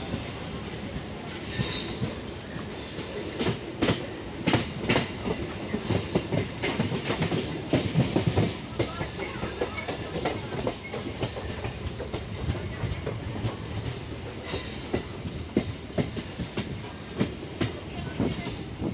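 Passenger train running, heard from its open doorway: a steady rumble with frequent irregular clicks and knocks of the wheels over rail joints.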